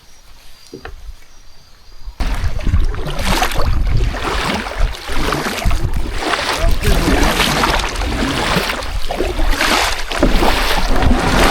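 Wind buffeting the microphone with a loud, uneven rumbling rush that starts abruptly about two seconds in, over the quieter sounds of a kayak on the water.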